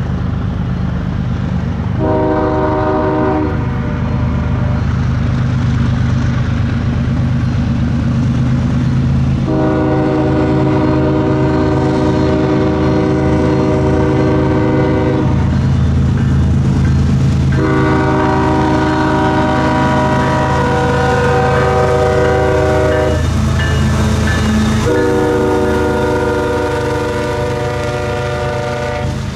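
Diesel freight locomotive sounding its chord horn four times, one short blast then three long ones, over the steady rumble of the locomotive's engine.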